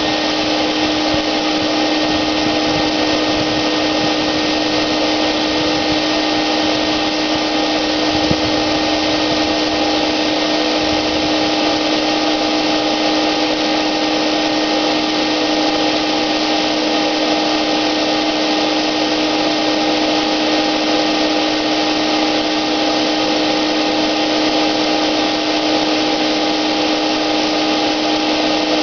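Wagner paint sprayer's motor running steadily after being switched on, a constant whine over a rush of air, with one faint click about eight seconds in.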